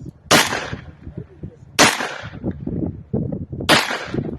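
Three shots from an unsuppressed 5.56 rifle, the first a moment in, then about a second and a half and two seconds apart, each with a short echoing tail.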